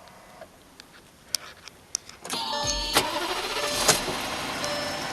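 2004 VW Touareg's 5.0-litre V10 TDI turbo-diesel engine starting: after a few faint clicks it cranks and fires about two seconds in, then runs on at a steady idle. A short electronic beep repeats over the idle.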